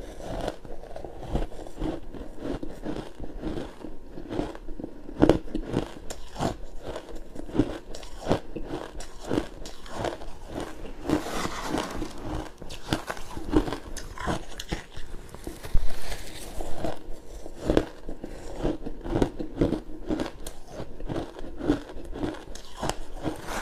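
Crunchy pink ice being bitten and chewed, a quick irregular run of sharp crunches and cracks, with one louder bite near the middle.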